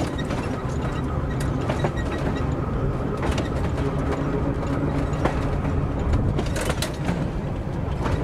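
Electric streetcar running on its track: a steady low hum with scattered sharp clicks and knocks.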